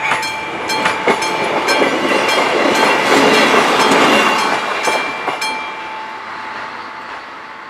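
A diesel railcar passes over the level crossing, its noise swelling to a peak about halfway and then fading. Throughout, the crossing's classic warning bell rings steadily, stopping about six seconds in as the crossing clears.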